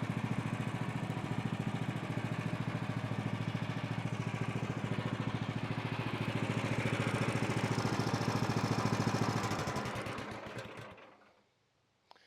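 Small gasoline engine of a Woodland Mills HM126 portable bandsaw mill running steadily with an even rapid beat, then shut off and coasting to a stop about eleven seconds in.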